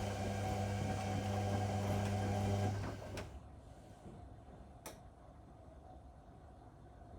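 Whirlpool Indiana 1400 washing machine's motor humming steadily as it turns the drum, then stopping a little under three seconds in, the pause between tumbles in the wash. After that comes a faint background with a single light click.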